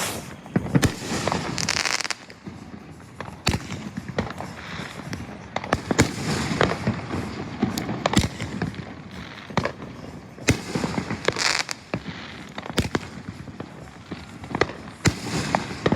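Fireworks going off in quick succession: sharp bangs every second or so, with bursts of crackling between them.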